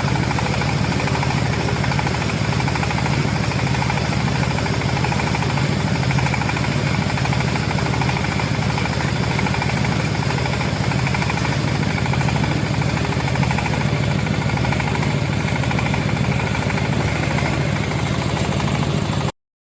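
Silage round baler-wrapper running steadily: a low machine drone with a fast, even rattle. It cuts off suddenly near the end.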